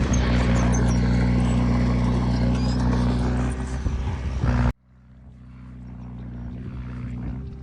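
Heavy diesel engine of earthmoving machinery running steadily, with clattering, scraping noise over it. About two-thirds of the way through, the sound cuts off abruptly, then the engine hum slowly grows back, quieter.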